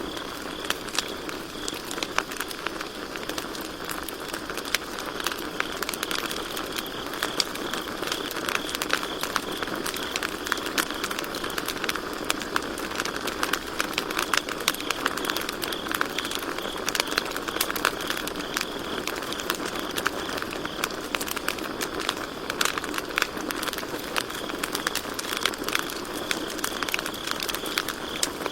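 Campfire crackling and popping with dense, irregular snaps, over a steady chorus of crickets chirping in a high, pulsing trill.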